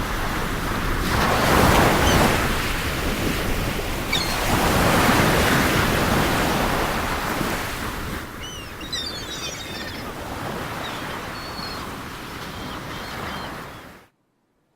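Sea waves breaking and washing in, swelling loudest twice in the first half. Faint high chirps sound over them in the second half, and the sound cuts off abruptly near the end.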